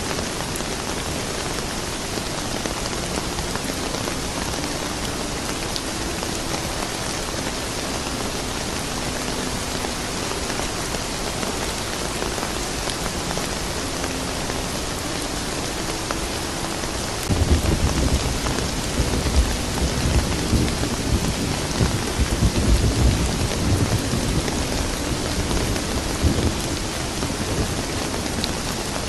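Steady rain falling, an even hiss. About two-thirds of the way through, a long low rumble sets in suddenly, swells and fades over about ten seconds.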